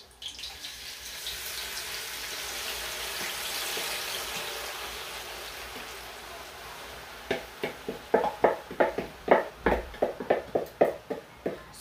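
Chopped sweet potato leaves landing in hot red palm oil and sizzling, a steady hiss that swells and then fades. From about seven seconds in comes a quick run of wooden-spoon knocks and scrapes against the bowl and the pot, about four a second, as the last leaves are pushed out.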